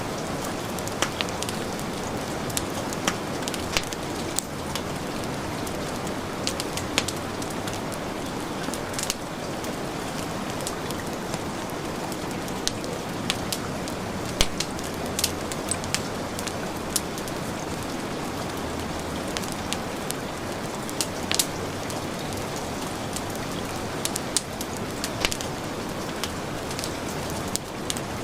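Heavy rain falling steadily, mixed with a crackling wood fire: a constant hiss of rain with sharp, irregular pops and crackles scattered throughout.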